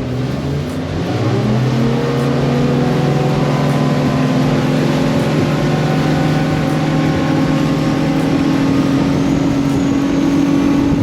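A motorboat's engine accelerating, its pitch rising over the first two seconds, then running steadily at speed over the rush of water and wind.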